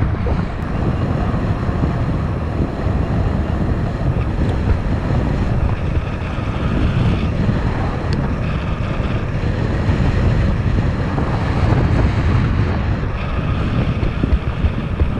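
Wind buffeting the microphone while riding along on an e-bike, a steady low rumble.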